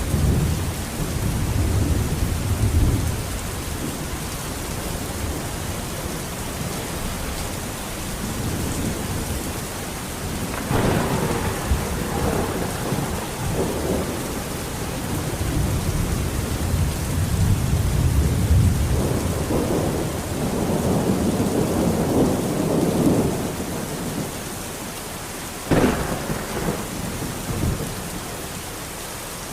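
Thunderstorm: steady rain with thunder rumbling on and off. A sharp thunderclap comes about a third of the way in and another near the end, each trailing into rumbling.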